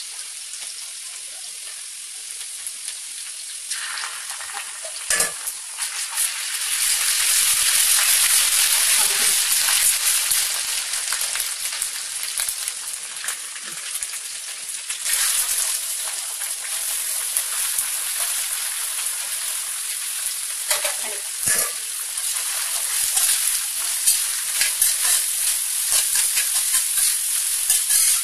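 Onions and chopped vegetables sizzling as they fry in hot oil in an iron kadai, the sizzle growing louder a few seconds in. A steel spatula clinks and scrapes against the pan as the food is stirred, with sharp knocks a few times.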